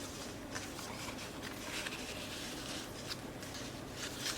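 Faint rustling of paper and a few light ticks as the pages of a handmade paper junk journal are handled.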